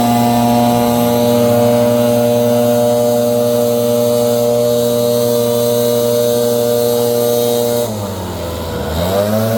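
Leaf blower running steadily at full throttle. About eight seconds in its pitch drops as the throttle is let off, then it revs back up to full speed near the end.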